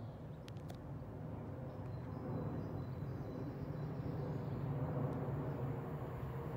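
An eight-car Class 379 electric multiple unit approaching at speed, its motor hum and wheel-on-rail noise growing steadily louder.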